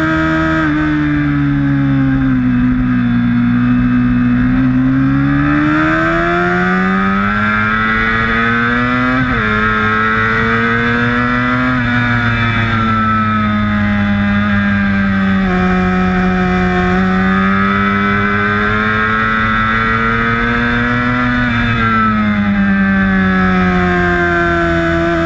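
Sportbike's inline-four engine heard onboard at track speed, its note falling and rising over several seconds at a time as it brakes and accelerates through corners, with a few sudden pitch steps at gear changes.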